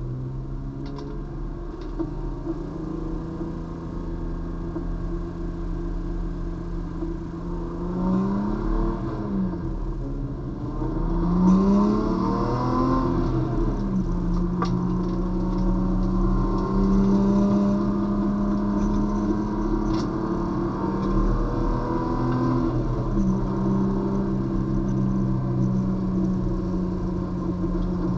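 Race car engine heard from inside the cabin, pulling away slowly and accelerating at light throttle. Its pitch climbs and drops a few times about eight to thirteen seconds in as it goes up through the gears, then holds fairly steady while cruising.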